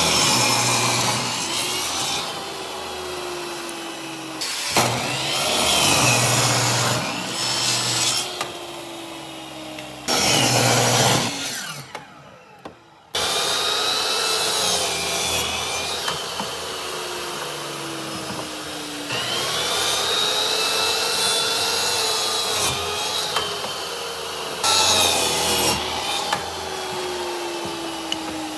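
Hand-held electric power tool working on wood, its motor pitch sagging and recovering as it bears into the work. It stops briefly about twelve seconds in, then starts again.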